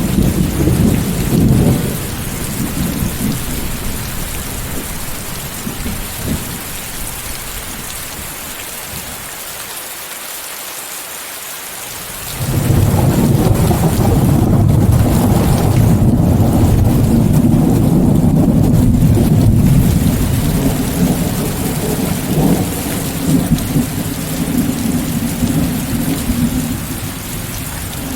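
Steady heavy rain with white noise mixed in, under rolling thunder. A rumble dies away in the first two seconds; about halfway through, a loud, deep thunder rumble breaks in suddenly, holds for several seconds and slowly fades.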